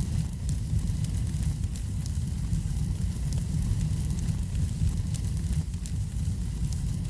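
Fire burning in a fireplace: a steady low rumble with scattered light crackles.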